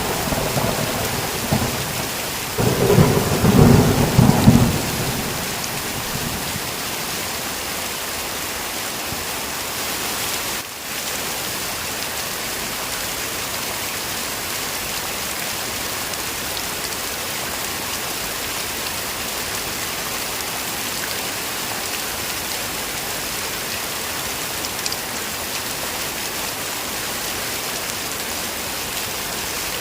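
Heavy rain falling steadily, with a roll of thunder rumbling about three seconds in. The rain noise dips for a moment about ten seconds in.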